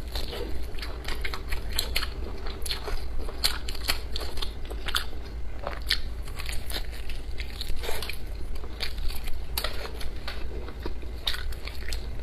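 Close-miked biting and chewing of braised pig's trotter: irregular mouth clicks and smacks, many a second, over a steady low hum.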